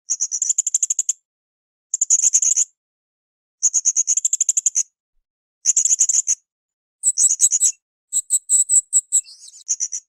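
Blue-crowned hanging parrot (srindit) calling: rapid trains of shrill, very high notes, each about a second long, repeated roughly every two seconds. Near the end comes a longer run of differently patterned notes.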